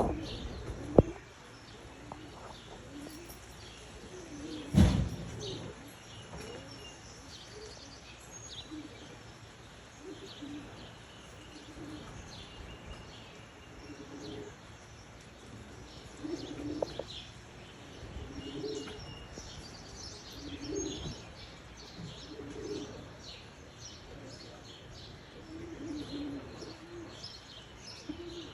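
Tippler pigeons cooing again and again, with higher chirping over them. There is a sharp thump about five seconds in.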